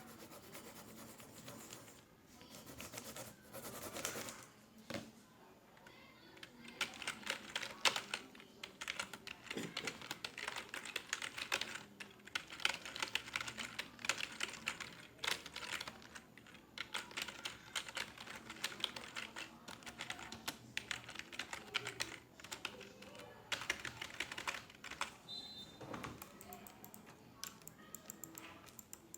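Computer keyboard typing in quick irregular runs of key clicks, busiest from about a quarter of the way in, with faint voices murmuring underneath.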